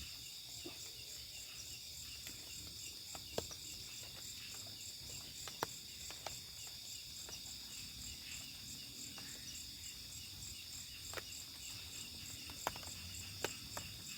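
Chorus of night insects in the forest, a steady, pulsing, high trill. A few sharp short ticks sound now and then over it.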